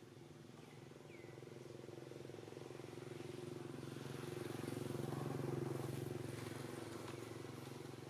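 A motor vehicle engine passing by: a steady hum that grows louder to its peak about five seconds in, then fades.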